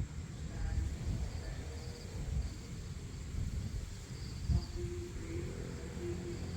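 Insects, likely crickets, chirping in short high trills that repeat every half second to a second, over a steady low rumble of outdoor ambience.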